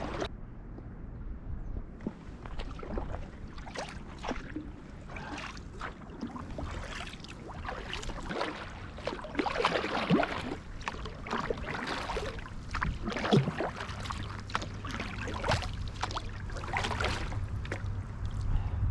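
Irregular knocks, scrapes and splashes of a kayak and paddle being handled at the water. A steady low hum joins about three-quarters of the way through.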